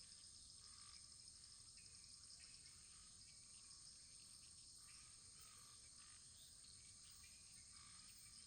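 Faint, steady high-pitched insect chorus, like crickets, with faint short chirps above it.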